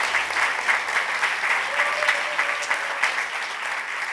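Congregation applauding: many people clapping densely together, easing off a little toward the end.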